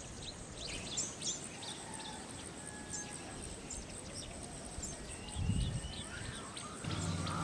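Outdoor ambience with birds chirping and calling, and a steady high-pitched buzz. There is a low thud about five and a half seconds in, and a low hum comes in near the end.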